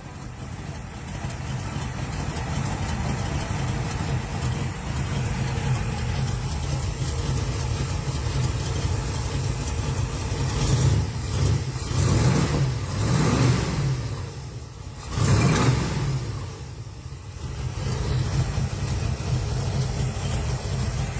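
1966 Chevrolet El Camino's 327 small-block V8 idling with a steady low rumble, revved up several times around the middle before settling back to idle.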